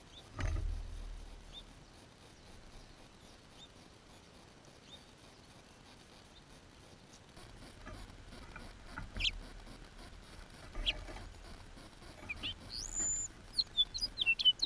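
Small birds at a hanging feeder, close to the microphone: a knock with a low bump about half a second in, then scattered light taps and ticks on the feeder. Near the end comes a high rising whistle, then a run of quick chirps.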